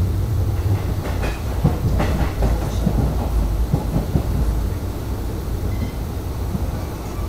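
A moving passenger train heard from an open coach doorway: a steady rumble of wheels on the rails, with a run of clicks and knocks in the first few seconds.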